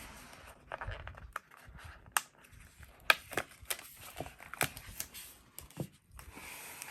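Paper and sticker handling on a planner page: scattered light clicks and taps with soft rustling, the sharpest click about three seconds in and a short rustle near the end.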